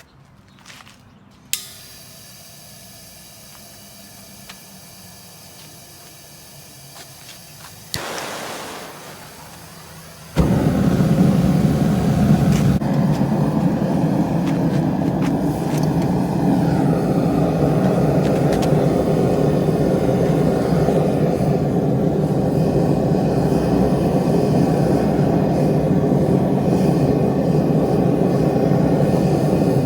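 A faint steady hum, then a loud, steady mechanical roar that starts suddenly about ten seconds in, just after a brief whoosh.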